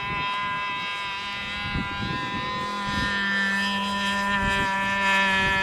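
G-Mark five-cylinder radial model engine of a radio-controlled Nieuport 28 running steadily in flight at a held pitch, growing a little louder toward the end. Wind gusts buffet the microphone.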